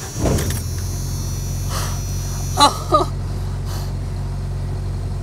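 1995 Jeep Wrangler YJ engine cranking briefly and catching almost at once, then settling into a steady idle: after a crank-but-no-start fault, it now starts with its engine computer (PCM) repaired with new capacitors. A thin high whine runs over the first couple of seconds.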